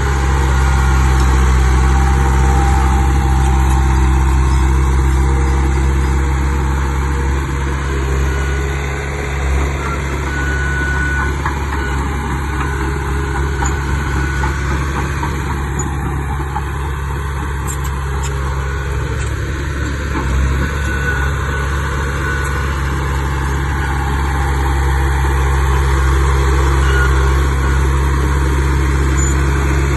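Heavy diesel engine of earthmoving machinery running steadily, with a low hum that swells and eases a little at times.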